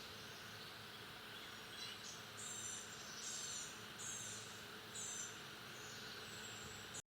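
Blue-gray gnatcatcher calling: a series of about five short, thin, high notes roughly a second apart over a steady faint background hiss, cutting off abruptly near the end.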